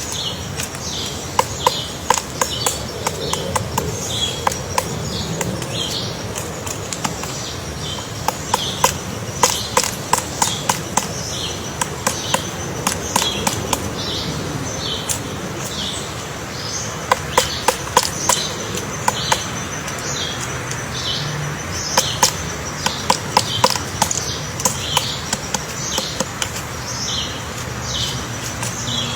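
Woodpecker pecking and chiseling into wood to dig out its nest hole, sharp taps coming in quick irregular bouts with short pauses between.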